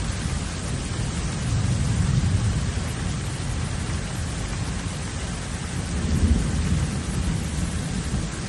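Heavy rain falling steadily, with low rumbles that swell about two seconds in and again around six seconds.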